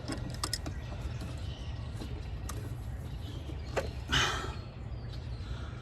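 Hand tools on a seized EGR valve nut: scattered sharp metal clicks and clinks, and a short rough rush of noise a little after the middle, over a steady low hum.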